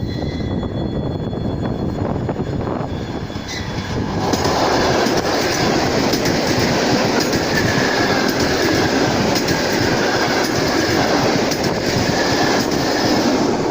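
Electric suburban train (elektrichka) passing close by, wheels clattering over rail joints with a faint high wheel squeal. It grows louder about four seconds in and stays loud.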